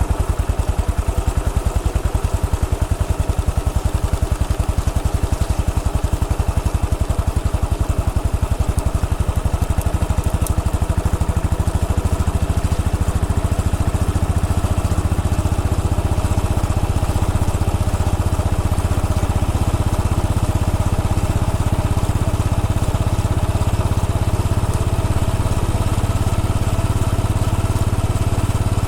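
Royal Enfield Bullet 500 EFI's single-cylinder engine running at low speed, with a steady, rapid beat of exhaust pulses.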